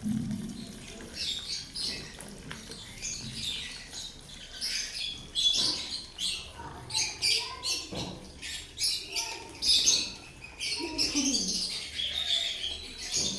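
Lovebirds chirping over and over in short, high calls, busiest from about five seconds in, along with light splashing of water as they bathe.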